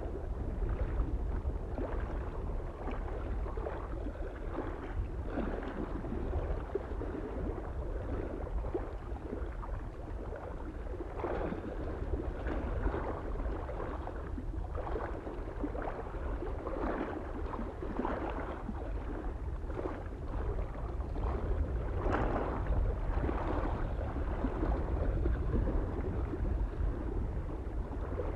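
Small waves lapping and splashing irregularly against a lake shore, over a steady low rumble of wind.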